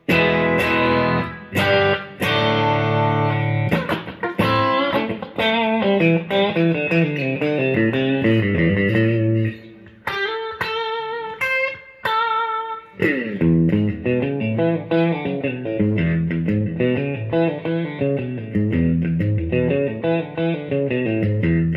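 Electric guitar with McL V2 clone pickups, played on the bridge-and-middle pickup combination through a Blues Breaker overdrive pedal: an extra quacky, lightly driven tone. Chords at the start give way to single-note blues lines, with a short break about ten seconds in and bent notes just after it.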